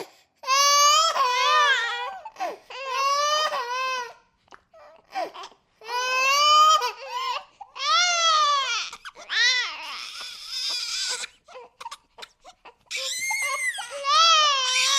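Baby crying: a run of wailing cries, each a second or two long with short gaps for breath, turning harsher and more scream-like for a moment about two-thirds of the way through.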